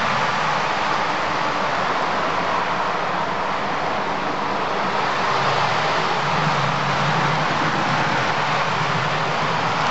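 Diesel passenger train passing close by: a steady rush of wheels on the rails and running noise. A low engine hum comes in about halfway through.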